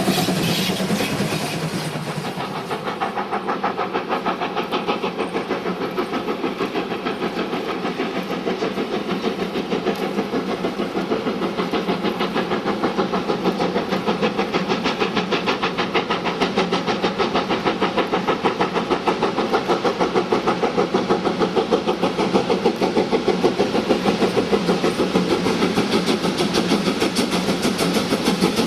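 Steam locomotive working hard on a steep grade, its exhaust beating in a fast, even rhythm that grows a little louder towards the end.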